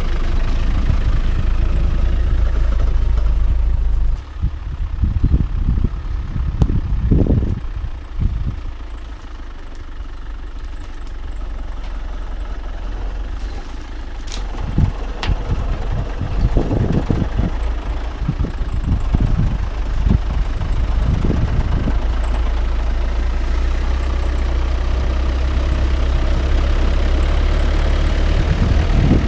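Land Rover Defender 90's engine running at low revs, dropping off about four seconds in and building back up later, with scattered thumps and knocks.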